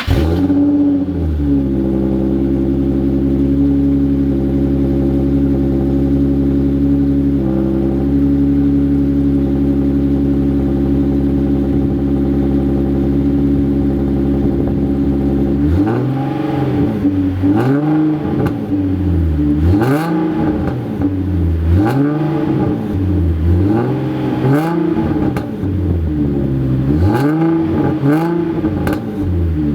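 Nissan 370Z's 3.7-litre V6 running through a Scorpion Y-pipe-back exhaust with high-flow cats. It idles steadily at first, then from about halfway it is blipped in about seven free revs, each rising and falling, roughly one every two seconds.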